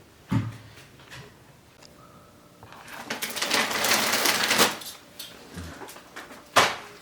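Handling sounds: a click, then about two seconds of rustling, and a sharp click near the end.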